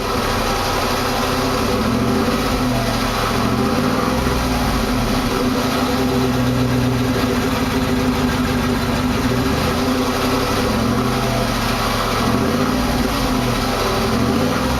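2009 Hummer H2's 6.2-litre V8 running steadily, its note wavering slightly up and down.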